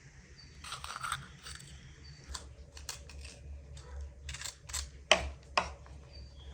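Handling sounds: scattered light clicks and short scrapes, with two sharper knocks a little after five seconds in.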